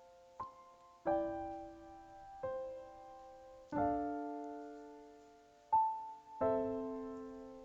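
Slow, gentle background piano music: single notes and soft chords struck about every second or so, each left to ring and fade.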